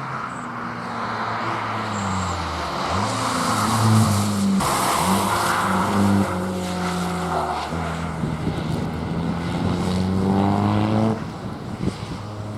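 Hill-climb race car engine at full throttle, shifting up through the gears: the pitch climbs and falls back several times, about every one and a half seconds. It is loudest about four seconds in, climbs once more, then drops off abruptly about eleven seconds in.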